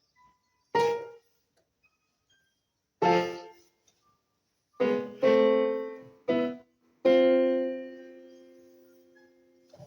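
Piano playing loud, separate chords with silent pauses between them. The last chord is held and left to ring down slowly for nearly three seconds.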